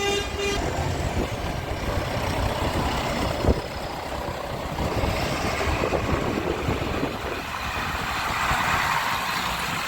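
Tractor engines running as tractors drive past in a procession, with a brief high pitched tone at the very start and a single thump about three and a half seconds in.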